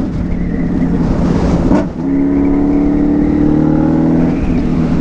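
Motorcycle on the move with heavy wind noise on the microphone. About two seconds in, a steady engine note comes up, rising slightly in pitch, and fades out after about two seconds.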